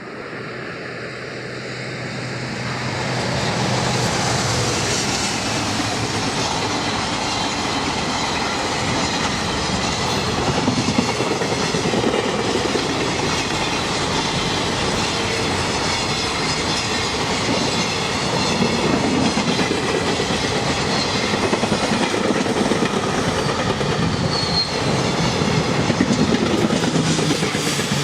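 JR Freight EF210 electric locomotive hauling a container freight train through a station, with the wagons' wheels clattering over the rail joints. The sound builds over the first few seconds as the train arrives, then holds steady as the long rake of wagons passes.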